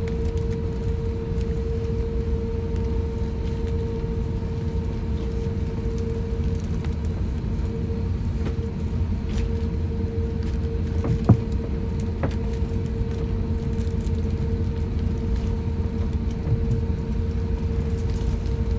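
Airbus A350-1000 cabin noise while taxiing after landing: a steady low rumble with a constant hum. A sharp click about eleven seconds in, and a fainter one a second later.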